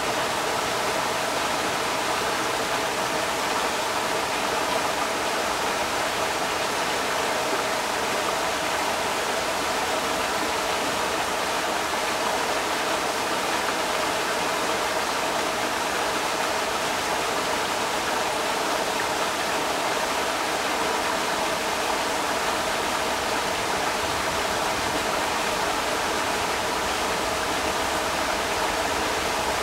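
Creek water rushing steadily over rocks, an even, unbroken wash of noise.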